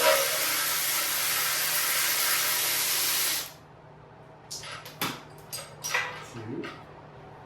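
A loud steady hiss of escaping air or spray that cuts off sharply about three and a half seconds in, followed by a few light clicks and knocks of tools on metal.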